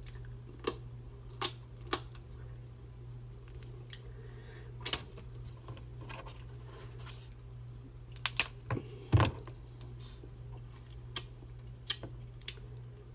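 Snow crab shell cracking and snapping in about a dozen sharp, separate clicks, with a cluster of them a little past the middle, over a steady low hum.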